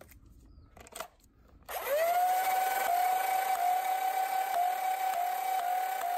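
Flywheel motors of a dual-stage Worker Swordfish foam-dart blaster spinning up with a rising whine that levels into a steady high whine. The pitch dips briefly each time a dart is fired through the flywheels, several shots in a row. A click comes about a second in, before the spin-up.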